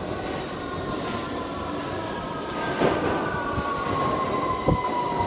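London Underground Victoria Line 2009 Stock train pulling into the platform, its traction motor whine falling slowly in pitch as it brakes, over the rumble of the wheels, with a sharp knock near the end.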